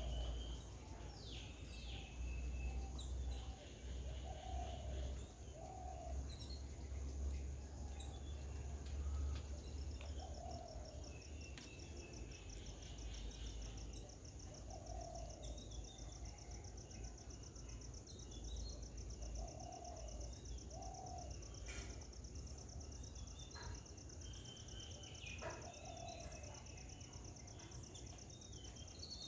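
Garden birds calling on and off: short lower calls repeated every few seconds, with scattered higher chirps. A steady high-pitched pulsing buzz joins about ten seconds in, over a low rumble that eases after the first half.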